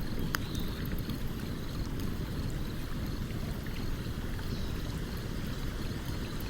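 A stream running steadily, with a campfire's sparse crackles and pops over it, one sharper pop just after the start.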